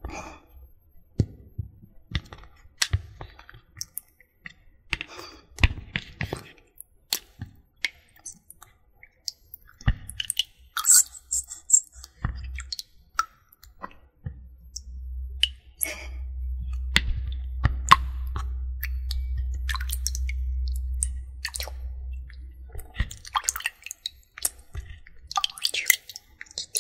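Close-up wet clicks and crackles of water being played with, sporadic and uneven, with a steady low rumble from about 15 to 22 seconds in.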